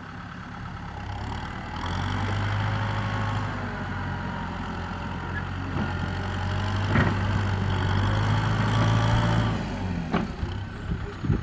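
Kubota M6040SU tractor's diesel engine working under load while pushing soil, growing louder about two seconds in, holding steady, then easing off near the end. A few short knocks stand out about seven seconds in and again in the last second or so.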